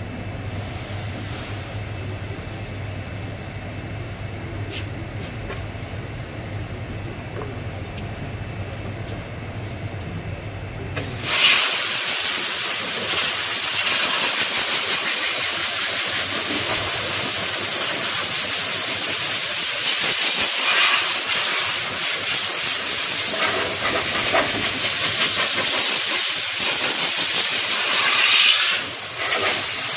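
Compressed air hissing loudly and evenly from a shop air tool. It starts suddenly about eleven seconds in, swells and dips slightly, and cuts off near the end. Before it, a low steady hum.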